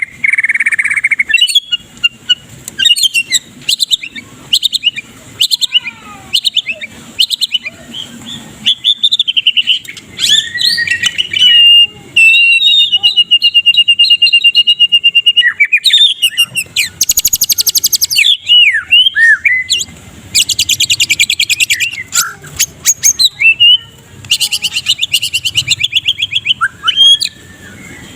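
White-rumped shama singing loudly: a fast run of varied whistles and chirps, a long wavering held note about halfway through, and three bursts of fast rattling trills (ketrekan) in the second half.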